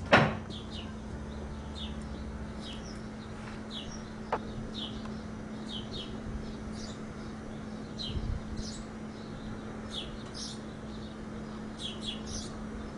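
Small bird chirping in short, high notes, roughly one or two a second, over a steady low hum. A sharp click right at the start and a single knock about four seconds in.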